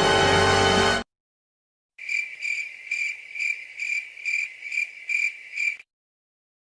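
Crickets-chirping comedy sound effect: a high chirp repeated about two and a half times a second for nearly four seconds, the stock gag for an awkward silence. It is preceded by the last second of a music clip, which cuts off abruptly.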